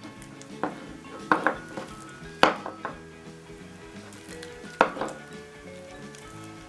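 Freshly borax-activated slime being kneaded and squeezed by hand, giving sticky, wet clicks and pops, a few of them sharp, the loudest about two and a half seconds in and again near five seconds.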